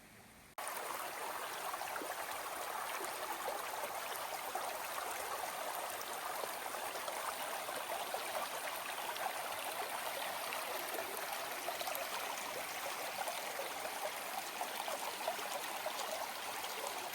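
Flowing water of a stream, a steady rushing and gurgling that cuts in abruptly about half a second in.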